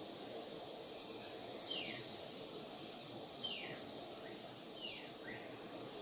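A bird calling with short whistles that slide down in pitch, three calls about a second and a half apart, the last one doubled, over a steady high background hiss.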